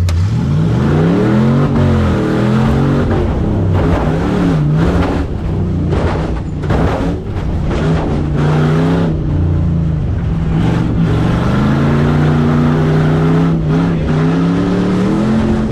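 Stock-class tough truck's engine revving hard and unevenly as it runs the dirt obstacle course, its pitch climbing, falling off and climbing again over and over as the throttle is worked. Short knocks and rattles are heard throughout.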